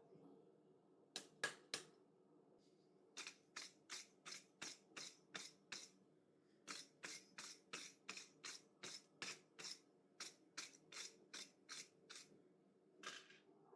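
Hand hammer blows on a hot 4140 steel bar on the anvil, forging a chisel tip. Three sharp strikes come first, then a steady run of blows about three a second with a short pause in the middle, and a last blow near the end.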